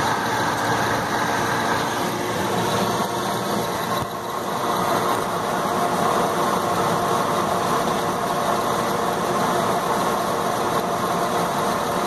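Rooftop gas-heat HVAC unit running: a steady motor-and-fan hum, with a brief dip in level about four seconds in.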